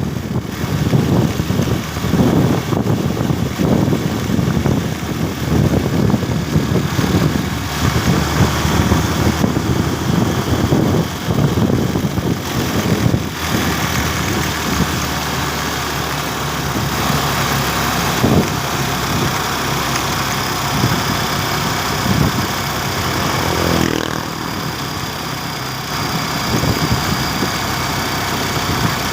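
Motorcycle engine running during a ride, with wind buffeting the microphone, gusty and heaviest for roughly the first half. After that it settles into a steadier engine hum.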